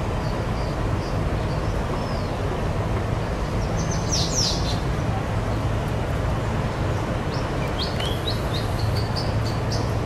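Short high bird chirps, a brief cluster about four seconds in and a quick run of chirps near the end, over a steady low rumble.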